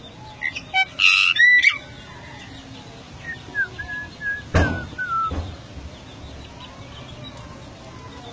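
Golden myna calling: a loud burst of whistled and harsh notes about a second in, then a series of shorter whistles around the middle.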